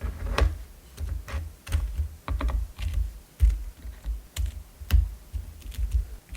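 Irregular light taps and clicks, one or two a second, each with a dull low thump under it.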